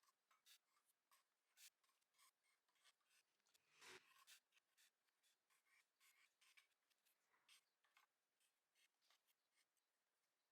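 Near silence with faint, irregular light scratches and ticks, and one slightly longer scrape about four seconds in: small handwork on a surface.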